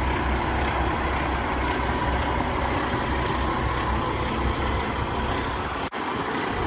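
Heavy diesel engine of a Kenworth T880 dump truck idling with a steady, pulsing low rumble; the sound drops out for an instant near the end.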